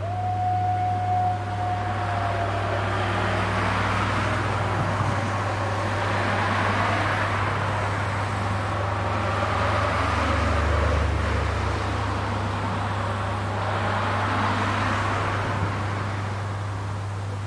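Road traffic passing over the level crossing, with several vehicles going by one after another, each swelling and fading, over a steady low hum. A high steady tone sounds for about two seconds at the start.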